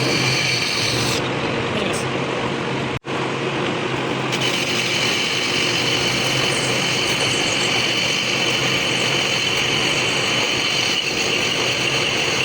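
A workshop machine running steadily, with a momentary break in the sound about three seconds in.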